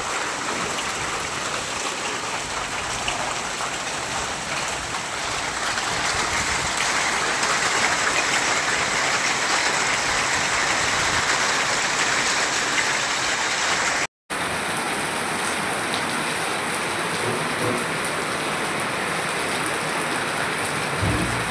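Heavy rain pouring steadily, a dense even hiss. About two thirds through it cuts out for an instant and resumes with a slightly different tone.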